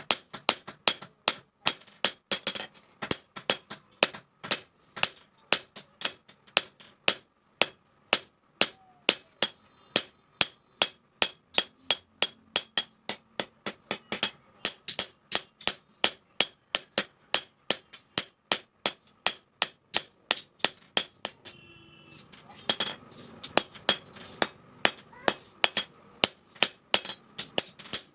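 Blacksmith's hand hammer striking steel on an anvil while forging a chain sprocket into a blade: a fast, even rhythm of ringing blows, about three a second, with one short pause about three quarters of the way through.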